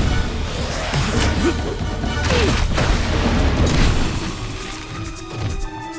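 Cartoon action soundtrack: background music with several crash and boom impact sound effects, the heaviest a couple of seconds in.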